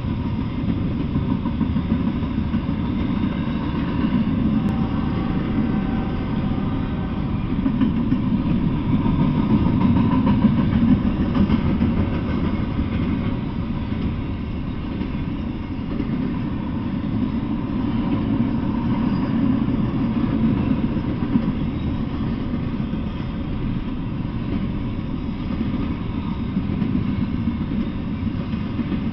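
Intermodal freight train's well cars rolling past: a steady low rumble of steel wheels on the rails, swelling slightly partway through, with faint higher tones now and then.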